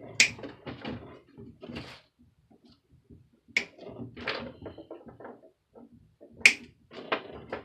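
Cutters snipping off the excess tails of plastic zip ties: three sharp snaps a few seconds apart, with light handling clicks and rustles between.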